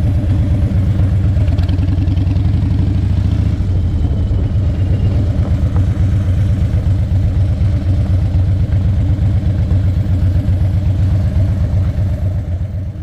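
Harley-Davidson V-twin engine running with a steady, low, pulsing rumble, fading out near the end.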